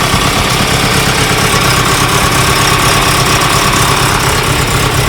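Toyota AE86's freshly built 4A-GE 20-valve four-cylinder racing engine idling loudly and steadily, just after its first start, warming up.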